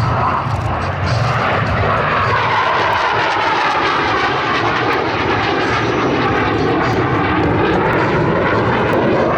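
Blue Angels F/A-18 Hornet jets flying past at an airshow: a loud, steady jet roar whose tone sweeps down and then back up as they pass.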